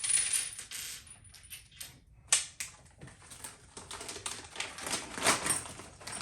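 Plastic packaging being torn open by hand: a vacuum-sealed parts bag crinkling in rapid crackles, with a sharp snap about two seconds in and another near five seconds.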